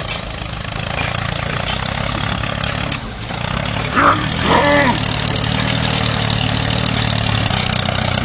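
Mini tractor's motor running steadily, with a short gliding call, like a voice, about four seconds in.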